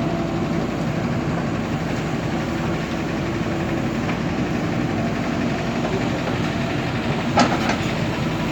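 Diesel engine of a JCB earthmoving machine running steadily as it works, with one sharp knock about seven seconds in.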